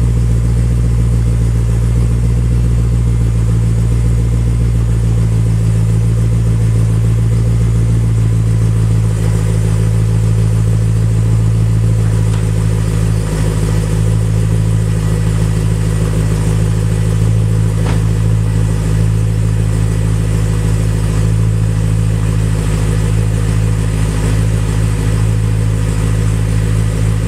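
BMW E92 M3's 4.0-litre V8 idling steadily through Remus Race mufflers and Eisenmann connecting pipes, still in its cold-start warm-up. It gives a deep, even exhaust note.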